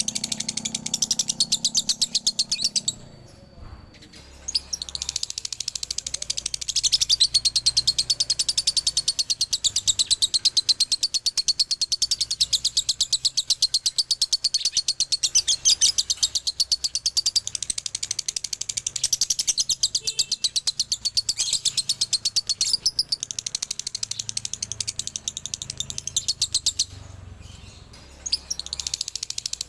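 Male lovebird singing a long, very fast chattering run of high chirps, many per second (the 'ngekek' double song). It breaks off briefly twice, about three seconds in and again near the end.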